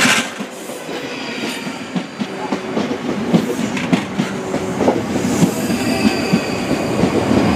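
Class 458 Juniper electric multiple unit pulling into the station, its wheels clicking over rail joints and pointwork as it grows steadily louder. A faint high whine comes in over the last few seconds.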